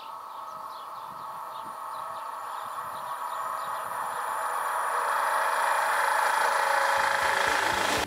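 High-speed electric train approaching at speed: a steady rushing noise that grows steadily louder as it nears.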